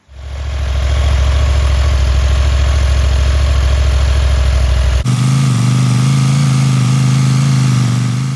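Small portable air compressor running steadily, reinflating a freshly plugged motorcycle tire. About five seconds in the hum changes abruptly to a higher pitch, then it cuts off suddenly near the end.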